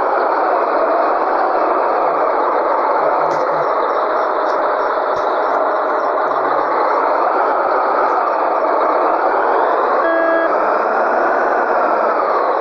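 Scania 113G truck's diesel engine running, a loud, steady drone whose pitch slowly rises and falls. A short beep sounds about ten seconds in.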